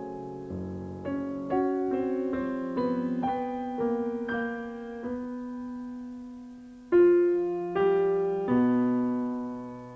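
Solo piano playing classical music: a slow run of single notes and chords, each fading after it is struck, with a long held chord dying away in the middle and a louder chord struck about seven seconds in.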